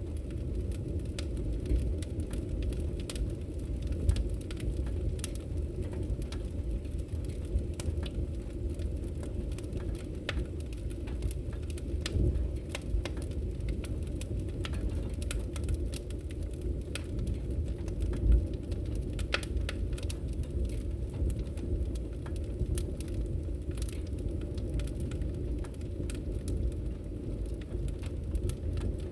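Campfire burning: a steady low rush of flames with scattered sharp crackles and pops.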